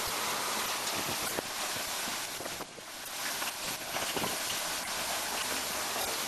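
Sand washing machine running: a steady rushing noise of water and sand with scattered small clicks, dipping briefly a little over halfway through.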